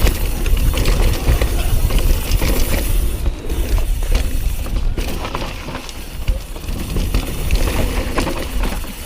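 Diamondback Mission Pro mountain bike riding down a dirt trail: tyres rolling over the ground and the bike rattling over bumps. Heavy wind rumble on the microphone runs underneath.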